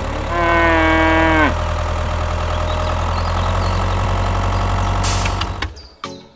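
Steady low hum of an idling engine that dies away about five and a half seconds in. Near the start a single drawn-out call sounds over it for about a second, holding one pitch and then falling.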